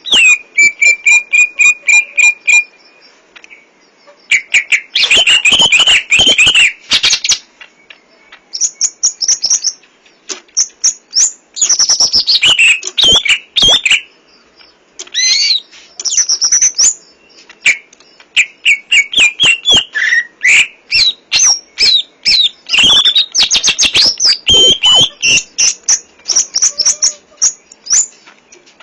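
Cucak ijo (green leafbird) singing loudly: a long, varied song of clear whistles, fast trills and rattling chatter delivered in phrases with short pauses, packed with mimicked song phrases (full 'isian').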